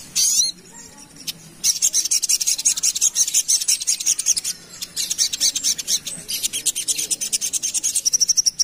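Sogok ontong (little spiderhunter) singing a fast, dense, rasping chatter of very short high notes, with brief pauses. It starts with a short high call and ends on a brief steady high note.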